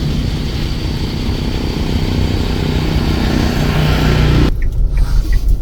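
A motor running steadily. About four and a half seconds in the sound changes abruptly to a deeper rumble.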